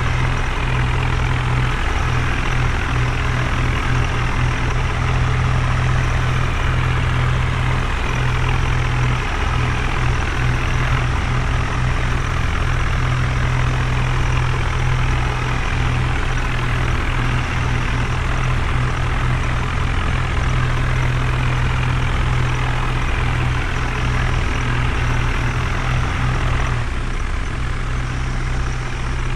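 Heavy diesel engine running steadily with a strong low hum; its higher sound drops away near the end as the engine eases off.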